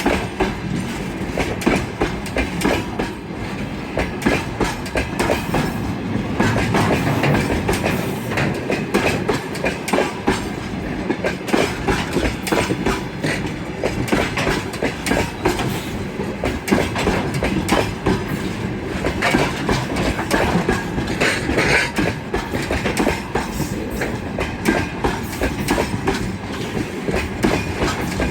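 Freight train rolling past, its wheels clacking over rail joints in a dense, continuous run of clicks over a steady rumble.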